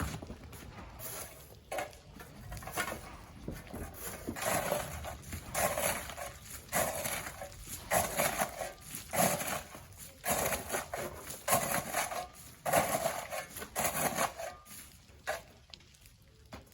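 Sand being shovelled by hand, each scoop and toss a gritty rasp, in a steady rhythm of about one stroke a second that stops about two seconds before the end.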